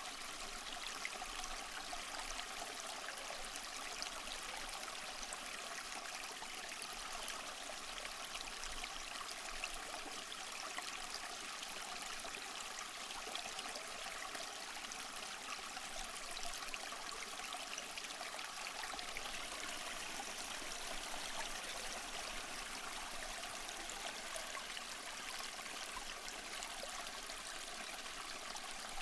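Small mossy waterfall: water trickling and splashing steadily over rocks, a continuous light, splashy rush with little low rumble.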